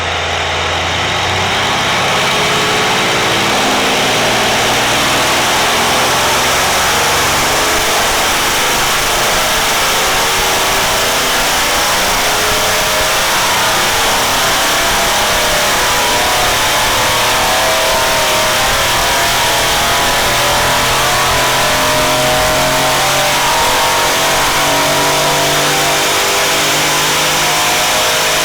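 Mercedes C63's 4.0-litre twin-turbo V8, running without catalytic converters through aftermarket downpipes, held at full load on a rolling-road dyno; loud and steady, its pitch climbing slowly as the revs build.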